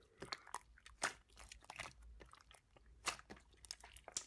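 Slime being kneaded and pressed by hand, giving off faint, irregular crisp clicks and pops.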